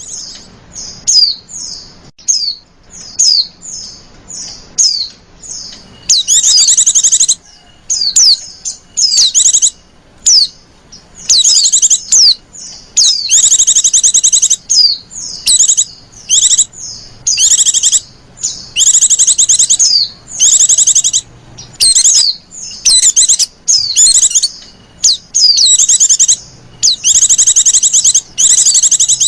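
Female white-eye (pleci) calling: short, high, falling chirps, then from about six seconds in, rapid chattering trills about a second long repeated with short gaps. These are the female's coaxing calls used to lure male white-eyes.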